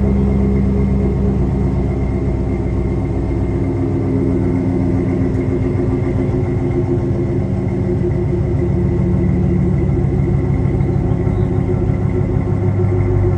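Truck engine idling after a cold start through a true dual exhaust with an X-pipe and Thrush welded mufflers, resonators removed: a steady, loud low rumble with no revving.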